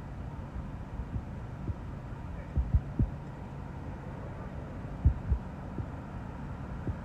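Gusty wind buffeting the microphone: a steady low rumble broken by irregular low thumps, the strongest in a cluster about two and a half to three seconds in and again about five seconds in.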